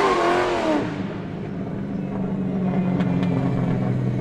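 Car tires squealing for a moment, fading out about a second in, then a car engine and exhaust running steadily at low revs.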